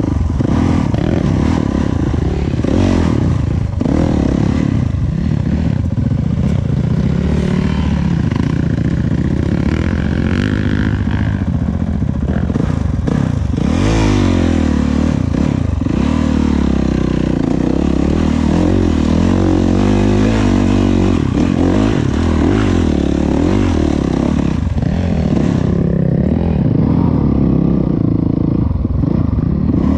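Dirt bike engine running hard off-road, its pitch rising and falling as the throttle is opened and closed, with rattling and scraping from the bike over rough ground.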